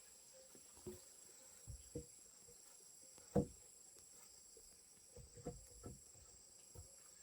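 Insects, crickets or cicadas, keep up a steady high trill with a pulsing band above it. Over it come about eight short knocks: a few in the first two seconds, the loudest about halfway, and a quick cluster of three near the end.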